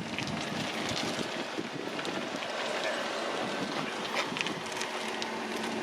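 Steady outdoor background noise, mostly wind on the microphone.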